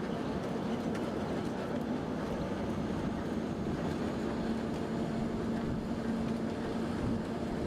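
Train running, a steady rumble with a low hum through most of it.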